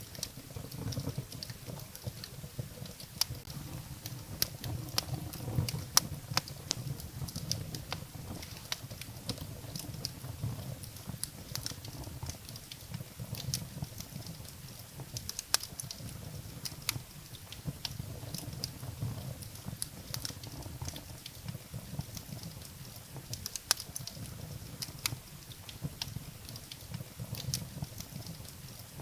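Firewood burning in a fireplace: irregular sharp crackles and pops from the burning wood over a low, steady rush of the flames.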